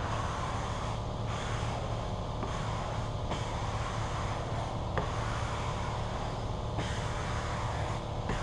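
A steady low mechanical hum with several pitched tones stacked over it, under a hiss that comes and goes every second or two; a sharp click about five seconds in.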